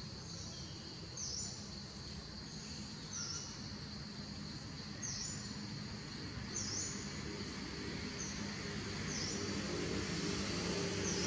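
Outdoor forest ambience: a bird repeats a short, high call about every second and a half over a steady high insect drone and a low rumble that swells slightly near the end.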